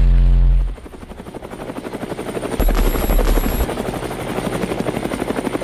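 Bass-heavy music cuts off abruptly under a second in, and a helicopter rotor sound effect takes over: a rapid chopping pulse that slowly grows louder, with a low boom for about a second in the middle.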